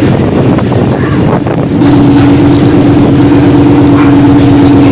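Car engine running nearby with a steady, loud drone. The drone fades for about the first two seconds, then returns and holds steady.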